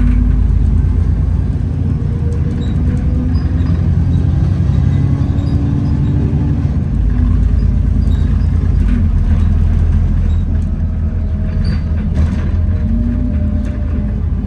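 Alexander Dennis Enviro400 double-decker bus heard from inside while under way: a steady low drivetrain rumble with a whining 'hoover' tone that rises and falls with the bus's speed. Loud axle noise and light rattles from vibrating interior panels run through it.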